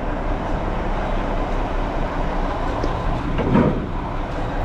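Garbage truck running steadily, an even rumble with no distinct events standing out.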